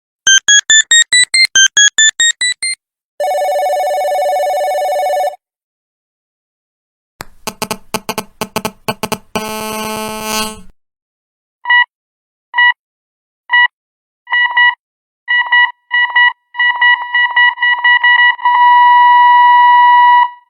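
A run of electronic phone ringtones and alerts. Quick beeps climbing in pitch in two runs, then a steady buzzing ring for about two seconds, then a flurry of tones that ends in a held chord. Last comes a single high beep that repeats faster and faster and becomes one held tone near the end.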